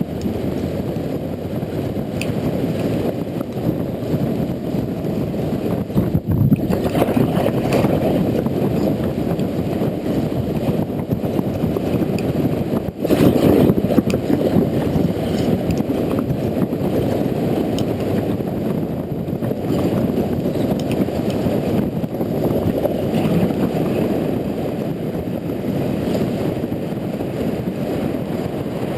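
Riding noise on a Honda Integra NC750D motorcycle: wind buffeting the action camera, mixed with engine and road noise, in a dense muffled rumble. It briefly drops out about six seconds in and again about thirteen seconds in.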